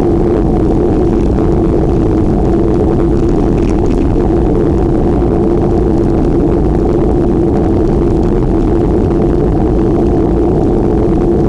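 Steady riding noise from a bike ride: a loud, unbroken low rumble of wind on the microphone with a steady hum over it.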